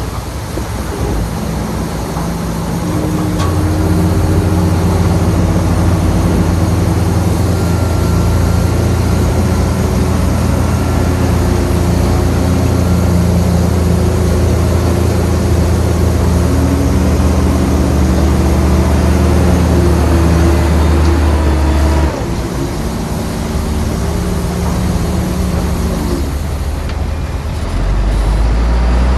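Shantui bulldozer's diesel engine working under load, a steady heavy drone that climbs about three and a half seconds in, eases off abruptly around twenty-two seconds and picks up again near the end.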